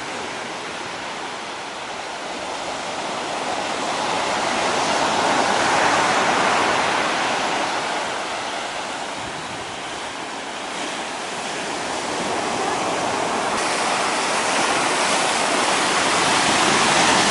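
Ocean surf breaking on the shore: a steady rush of water that swells to a peak about six seconds in, eases off, then builds again near the end.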